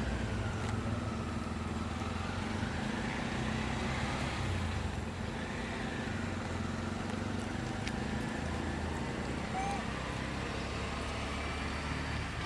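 A motor vehicle's engine hums steadily, with a faint whine that slowly rises and falls.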